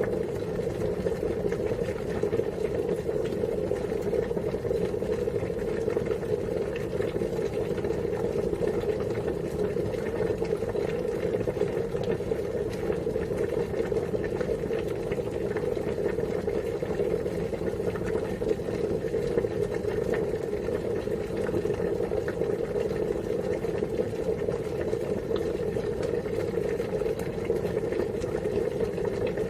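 Water boiling steadily, a constant unbroken noise with no change in level.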